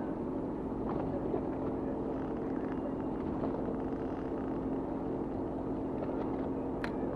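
A fishing boat's engine running steadily, an even drone with a few faint clicks over it.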